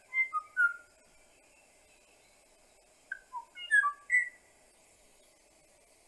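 Kauaʻi ʻōʻō (ʻōʻōʻāʻā) song from a field recording: two short phrases of clear, flute-like whistled notes, one right at the start and another about three seconds in, over a steady faint hiss.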